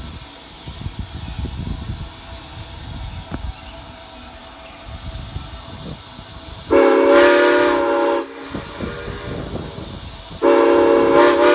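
Southern Pacific six-chime steam locomotive whistle blowing two blasts, a chord of several steady tones. The first comes about seven seconds in and lasts about a second and a half; the second starts near the end. Low rumble and hiss of the standing train lie between them.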